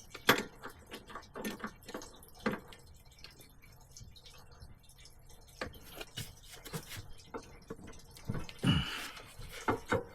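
Irregular clicks and light knocks of hand tools and parts being handled during a washing machine's motor coupler and transmission repair, with a short scraping noise near the end.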